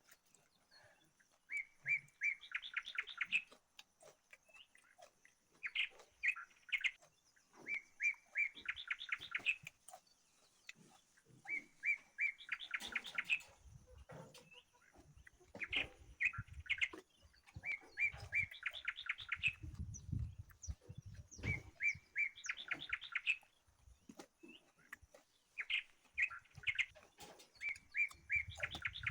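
A bird singing the same short song over and over, about every three seconds: a few separate notes, then a quick run of notes. A few low, faint thuds come in the middle and near the end.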